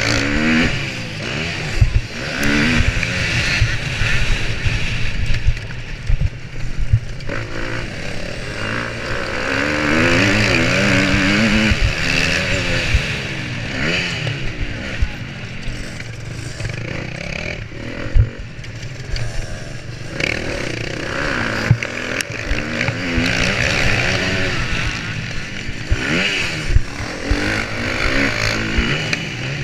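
Motocross bike engine revving up and down repeatedly, close to an onboard GoPro, with frequent short knocks and clatter.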